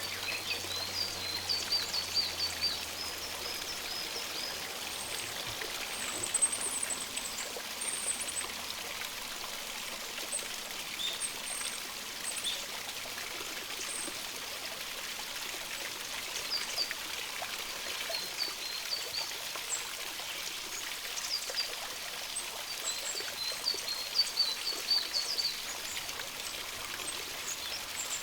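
A stream running steadily, with small songbirds giving short, high chirps in quick runs near the start and again near the end, plus a few very high thin notes.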